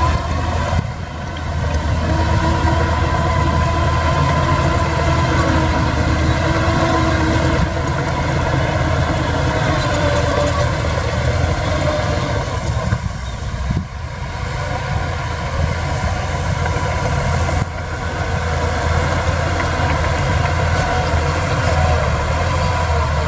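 Heavy earthmoving machine's diesel engine running steadily, with a brief drop in level about a second in and another around the middle.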